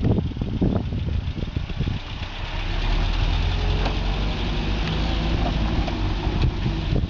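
Series Land Rover's engine running at low speed as the vehicle drives off up a dirt track, with irregular low thumps in the first two seconds, then a steady low engine note.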